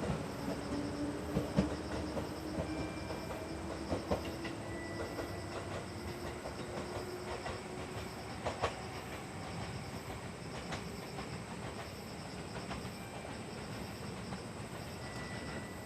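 211 series electric train pulling away, its motor hum rising slowly in pitch as it gathers speed, with wheels clicking over rail joints and the sound slowly fading.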